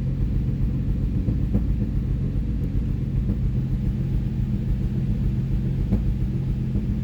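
Nissan 350Z's 3.5-litre V6 running steadily and evenly, without the misfire it had: the misfire was cured by replacing a faulty spark plug.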